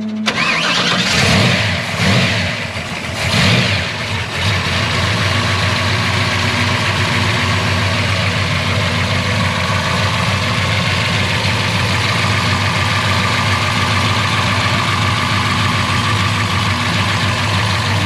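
Drag-built 468 cubic inch roller-cam big-block Chevy V8 fires up through its headers, is revved twice in the first few seconds, then settles into a steady idle.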